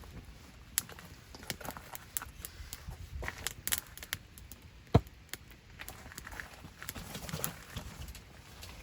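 Wood campfire crackling, with irregular snaps and pops and one sharp, louder crack about five seconds in.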